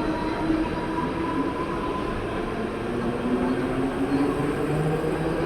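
Mumbai suburban electric multiple-unit local train pulling out of the station, its traction motors whining in pitches that climb step by step as it accelerates, over the steady rumble of the coaches.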